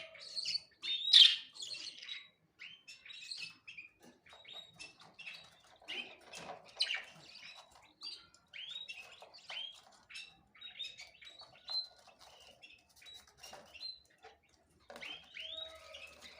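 Small birds chirping: many short, quick chirps and tweets, loudest about a second in, softer and scattered through the middle, then a busier burst of chirping near the end.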